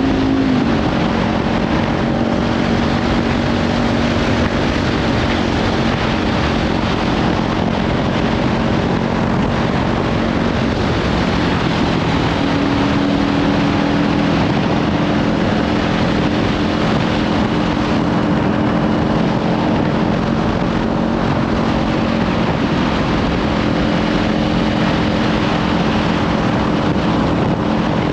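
Kawasaki Ninja 500 parallel-twin motorcycle with a Leovince slip-on exhaust riding along, its engine note heard under heavy wind noise on the microphone. The engine pitch dips just after the start and steps up again about twelve seconds in.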